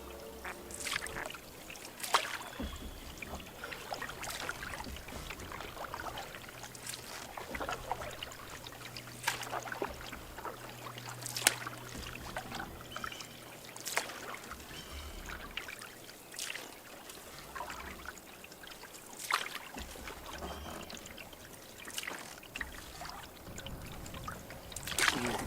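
Canoe paddle strokes in lake water: a short splash and trickle of drips every second or two.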